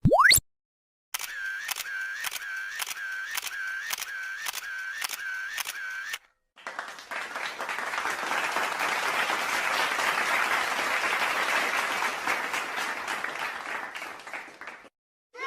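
Stock sound effects played one after another: a brief sweeping pitch glide, then a camera shutter clicking about twice a second for some five seconds, then about eight seconds of applause that swells and fades.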